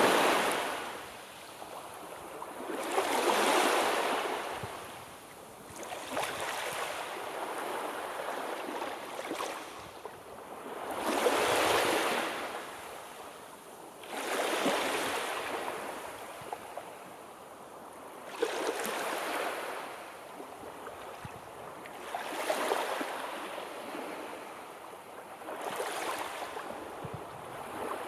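Sea waves breaking in a slow rhythm, a rush of surf swelling and fading about every three to four seconds, with a quieter wash between surges.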